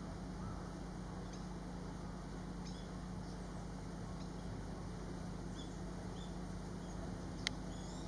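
Faint, scattered short bird chirps, high-pitched, about once a second, over a steady low hum, with one sharp click near the end.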